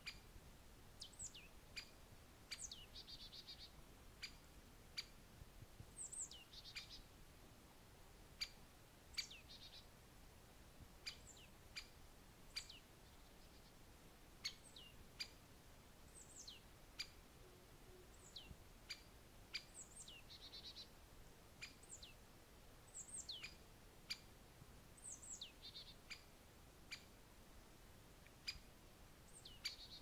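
Faint, high bird calls: short chirps sliding sharply downward every second or so, with a few brief trills and sharp ticks in between.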